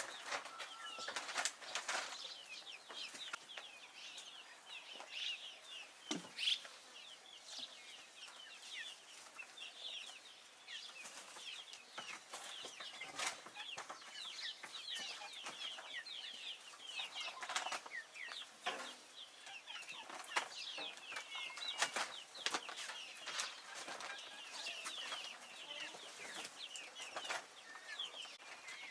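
A flock of young chicks peeping without a break, many short high chirps overlapping, with frequent short taps and clicks among them.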